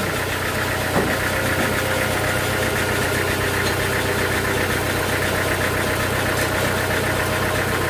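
Sawmill machinery running steadily: a continuous engine-like hum with a fast, even rattle over it.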